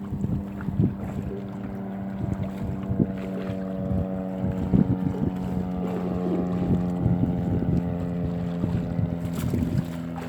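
Small fishing boat's engine running steadily, with irregular knocks and clatter on board while crab gill nets are hauled in.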